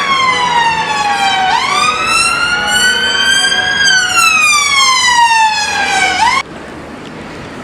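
Emergency vehicle siren wailing: a loud tone sweeping slowly down, climbing quickly and sweeping down again, then cutting off suddenly about six seconds in, leaving traffic noise.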